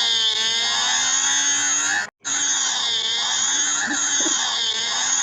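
Loud, harsh, heavily distorted edited sound with a low tone gliding slowly underneath. It cuts out for a split second about two seconds in, then carries on.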